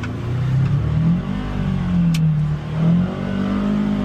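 Polaris Xpedition UTV engine running under changing throttle, its pitch rising and falling every second or so as it works over the trail. A single sharp click about two seconds in.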